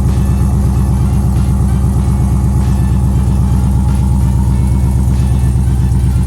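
Camaro's 5.7-litre LS1 V8 running steadily under way, a low, even engine note with no marked revving.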